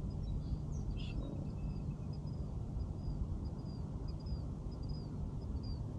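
Outdoor ambience: a steady low rumble with a small bird calling over it, repeating short high chirps about three times a second from about a second in.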